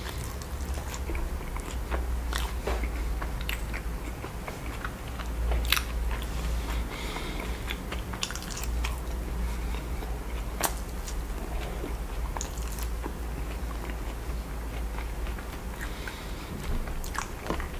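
Close-miked chewing of cheese-sauce-covered crinkle-cut fries, with scattered sharp wet mouth clicks at irregular intervals over a low steady hum.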